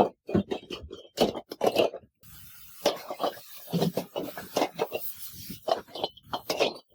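Irregular scraping and knocking of metal as scrap compressor parts are worked by hand, with a steady hiss coming in about two seconds in.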